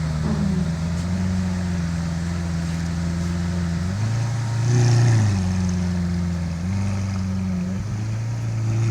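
Lamborghini Aventador's V12 idling steadily, with one brief throttle blip about four and a half seconds in that lifts the pitch and level before it drops back to idle.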